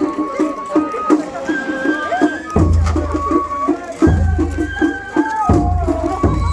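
Japanese festival float music (matsuri-bayashi): a bamboo flute plays a melody of held, sliding notes over a quick, steady beat of drums. A low rumble comes and goes underneath.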